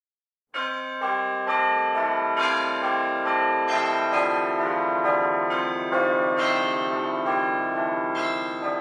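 A run of bell-like chimes, new notes struck one after another and ringing on together, starting about half a second in and dying away near the end.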